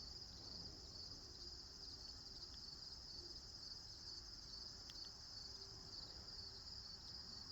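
Faint, steady insect chorus: a high, finely pulsing trill that runs on without a break, with a few soft ticks about five seconds in.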